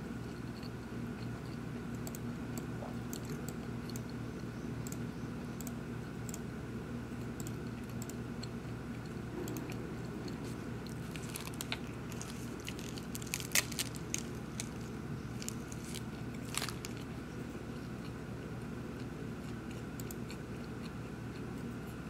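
A person crunching and chewing a snack, with a handful of sharp clicks and crinkles from handling a small object about halfway through, over a steady background hum.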